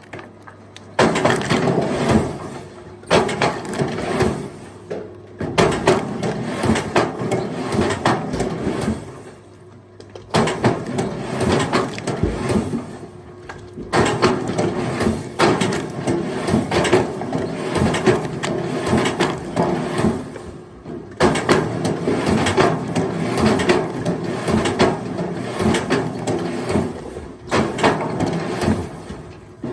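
Split firewood clattering and knocking together in repeated bouts as logs tumble onto a pile, over a steady motor hum.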